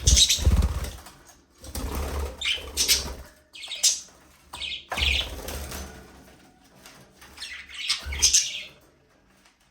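Budgerigars chirping and squawking, with about four bursts of wing flapping as they take off and fly about.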